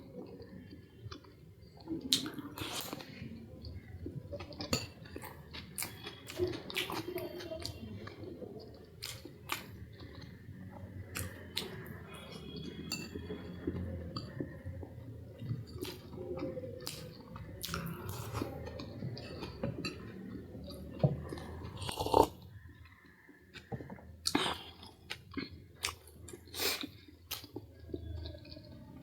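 A person chewing and eating food close to the microphone, with irregular wet mouth clicks throughout.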